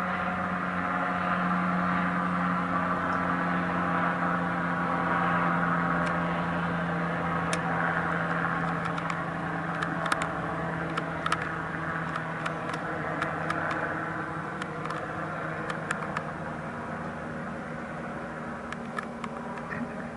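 A steady engine drone with a low hum, easing off slowly toward the end, with scattered sharp clicks from about six seconds in.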